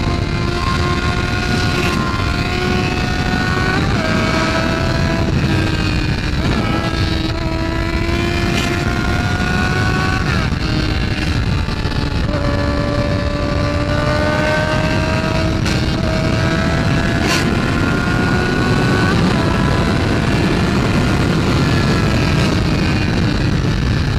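Motorcycle engine under way, its pitch climbing slowly and stepping down at several gear changes, under heavy wind rush on the rider's microphone.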